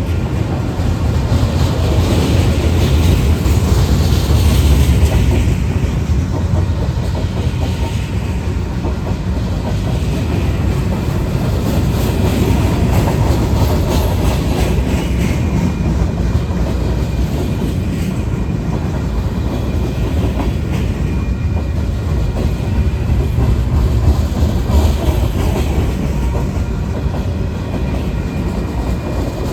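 Freight train rolling past with a steady loud rumble, its wheels clacking over the rails.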